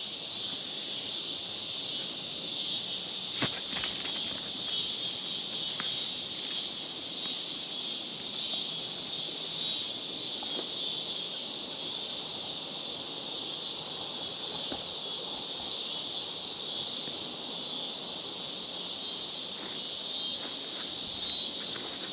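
Steady chorus of insects, crickets or katydids, trilling continuously in a high band, with a faint click or two.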